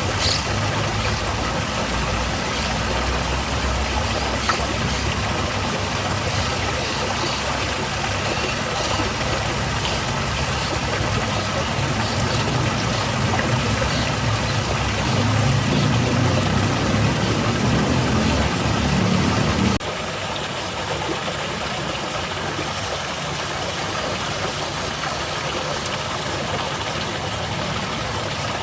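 Waterfall: a steady rush of falling water, with a low rumble underneath that cuts off suddenly about two-thirds of the way through.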